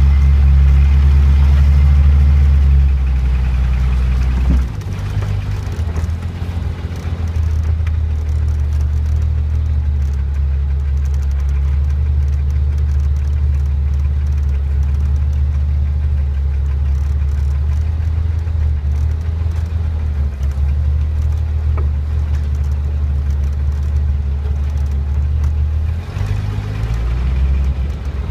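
1991 Jeep Cherokee XJ's 4.0-litre HO straight-six running as it drives a dirt trail, a steady low engine drone. About four and a half seconds in there is a short knock and the engine note drops and changes pitch, and it shifts again near the end.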